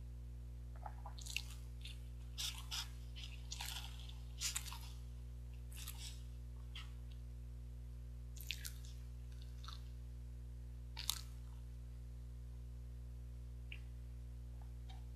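Mouth sounds of someone chewing soft, spongy jeungpyeon (steamed rice cake): irregular wet smacks and clicks, the sharpest about eleven seconds in, then mostly quiet. A steady low hum runs underneath.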